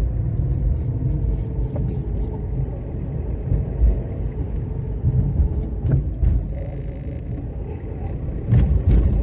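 Steady low engine and road rumble heard from inside a moving car's cabin, with a few heavier low bumps near the end.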